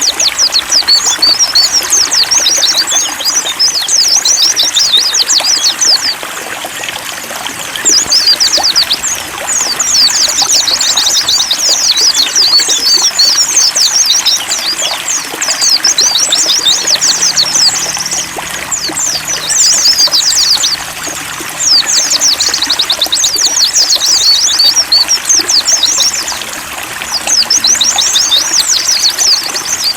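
Pleci (white-eye) birds singing in long runs of rapid, high twittering, phrase after phrase with brief pauses, over a steady trickle of water.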